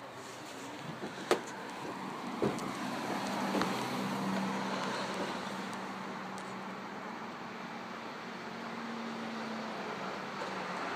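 A car engine running, a steady low hum that swells about four seconds in and slowly fades, with a few sharp clicks in the first four seconds.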